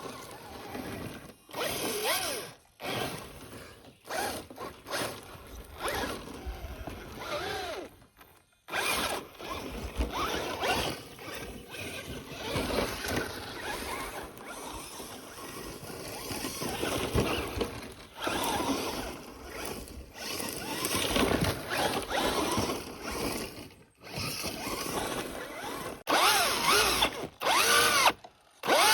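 A Traxxas Slash 4x4 RC truck's brushless electric motor and geared drivetrain whining up and down in pitch in repeated bursts as the throttle is worked, cutting out briefly between bursts.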